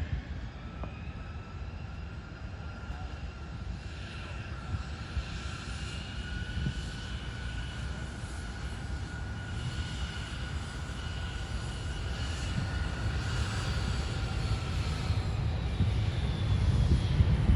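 Airliner engines: a steady whine over a low rumble that grows louder toward the end.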